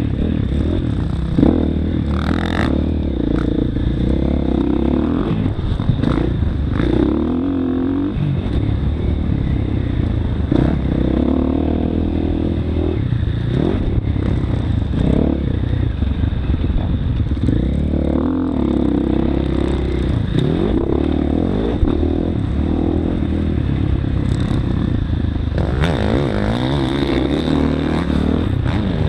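Motocross bike engine being ridden hard, its pitch rising and falling over and over as the rider works the throttle and gears.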